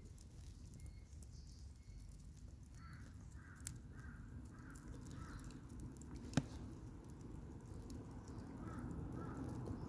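A crow cawing: a run of about six caws, then two or three more near the end, over a low steady background rumble. Two sharp knocks cut in, the louder one about six seconds in.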